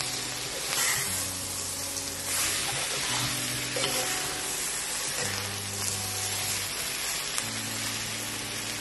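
Sliced bitter gourd and onions frying and sizzling in a pot while a metal spoon stirs them, scraping now and then. Soft background music of held low notes that change every second or two plays underneath.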